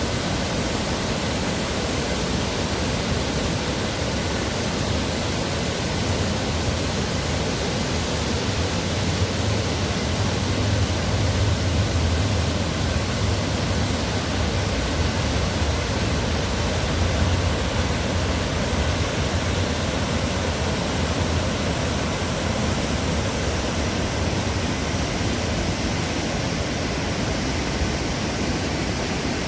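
Waterfall rushing in a steady, dense roar of falling water, with a deep low rumble that swells a little about a third of the way in.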